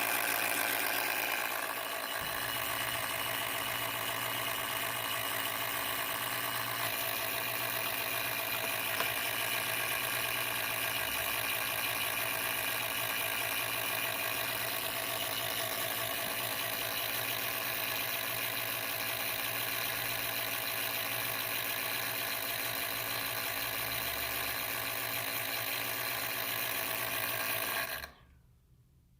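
MSI PE60 6QE gaming laptop's cooling fan running loud, a steady rushing whir with a buzzing whine in it: the annoying fan noise the owner wants fixed. It cuts off abruptly near the end.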